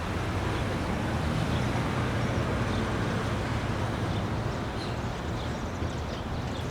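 Steady city traffic rumble, with faint high chirps now and then.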